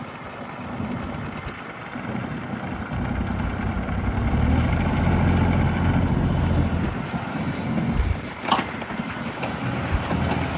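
Kubota KX033-4 mini excavator's diesel engine running, getting louder about three seconds in and easing off again after about eight seconds. A single sharp clank comes near the end.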